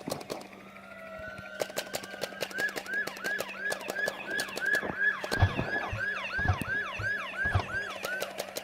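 Electronic police siren in fast yelp mode, a quick rising-and-falling tone repeating about three times a second, with many sharp clicks over it and a few low thumps in the second half.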